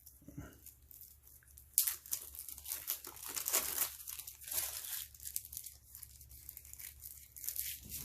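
Wrapping on a pack of game cards being torn open and crinkled, starting with a sharp rip about two seconds in and followed by irregular crinkling as it is pulled off.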